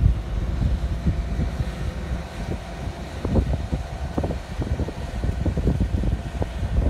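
Harsco rail-grinding train rolling slowly past: a low rumble with many irregular clicks and knocks from its wheels on the track.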